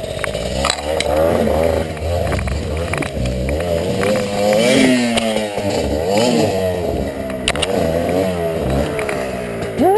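Two-stroke dirt bike engine revving up and down over and over, its pitch wavering rather than holding steady.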